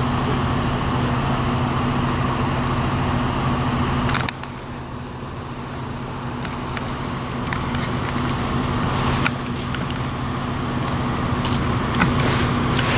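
A vehicle engine idles with a steady hum, then cuts off abruptly about four seconds in. Quieter street and traffic noise follows, with a few faint knocks.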